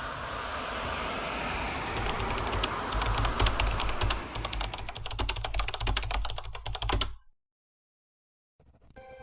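A rising swell of noise with a low rumble, then a rapid, dense run of sharp clicks over the rumble that cuts off abruptly about seven seconds in.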